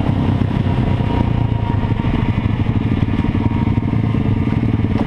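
Moped engine running steadily.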